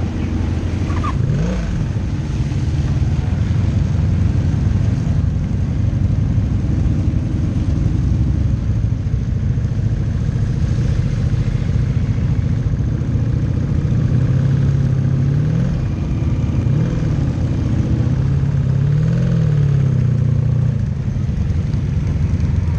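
Motorcycle engine running steadily, its pitch rising and falling as it revs up and eases off, briefly near the start and several times in the second half.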